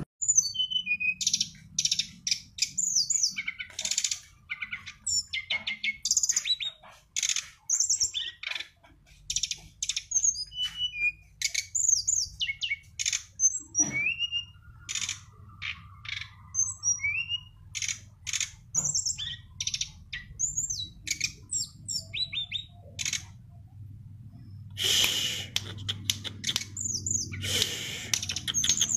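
A songbird singing a fast, varied song of high chirps, whistled slurs and trills, with a harsher, rasping stretch near the end.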